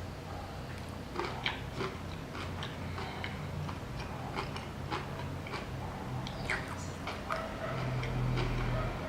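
Close-up chewing of a mouthful of chicken burger: soft, wet mouth clicks and smacks scattered irregularly. Near the end a low steady hum grows louder for about a second.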